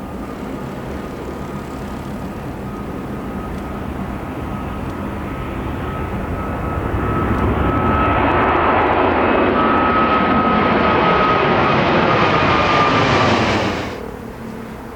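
An airliner passing low overhead. Its engine noise builds with a steady whine, stays loud for several seconds, then drops away abruptly as it goes past.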